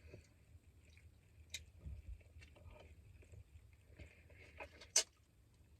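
Faint chewing and mouth sounds of someone eating chicken wings, with scattered small clicks and one sharp smack about five seconds in.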